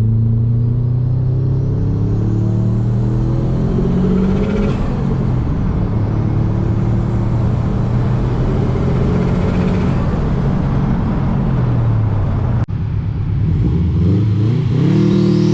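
Subaru WRX/STI turbocharged flat-four engine under acceleration. Its pitch climbs for several seconds, drops, and climbs again, as when accelerating through the gears.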